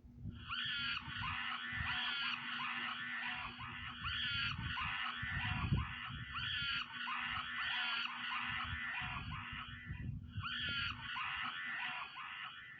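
Chimpanzee calls, a long run of repeated high, arching hoots and screams, with a brief break about ten seconds in.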